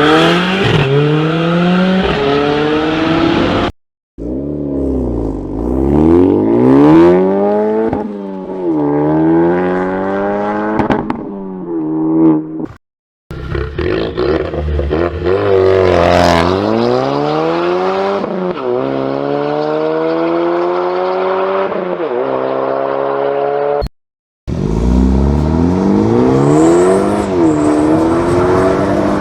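Turbocharged inline-four car engines accelerating hard, their pitch climbing and then dropping at each gear change, in four separate clips cut apart by brief silences.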